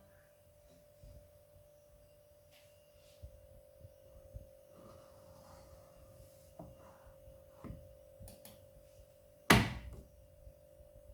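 Handling noises at a Midea front-loading washing machine: a few soft knocks and rustles over a faint steady hum, then one loud, sharp thump about nine and a half seconds in.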